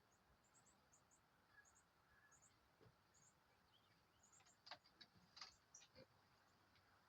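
Faint outdoor wildlife sounds: high-pitched chirps in quick pairs, repeating every half second or so, joined by several sharp clicks and short calls between about four and a half and six seconds in.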